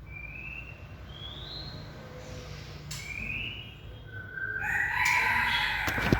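White-rumped shama calling: three short, slightly rising whistled notes, then a louder, longer call near the end. A few sharp knocks come at the very end.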